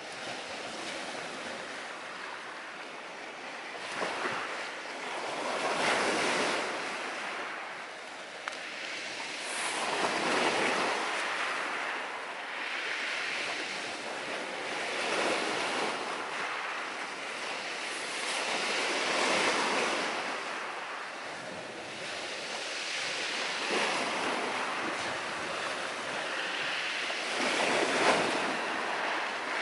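Sea surf breaking and washing on the shore in slow swells about every four to five seconds, with a few sharp pops from a wood fire burning in a camping stove.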